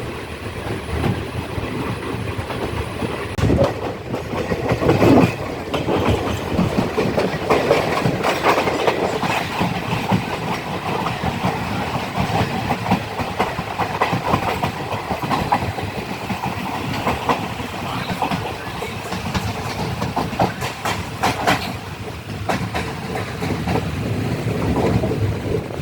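Indian Railways passenger train running along the track: a steady rumble with frequent clicks of the wheels passing over rail joints.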